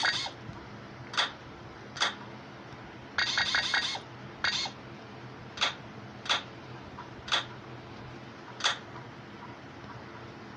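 A series of sharp mechanical clicks, single ones spaced roughly a second apart, with a burst of rapid clicking about three seconds in, over a faint steady hum.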